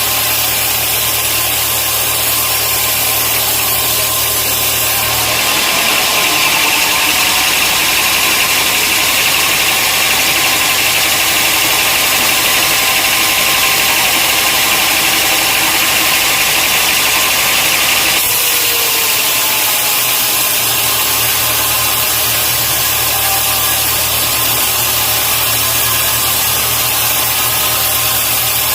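Sawmill machinery running steadily. A loud engine-like hum is mixed with hissing noise. From about 5 s to 18 s in, the hiss gets higher and stronger and the low hum drops; both changes are abrupt.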